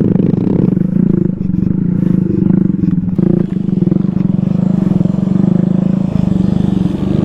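ATV engine running at a steady, even pitch while riding along.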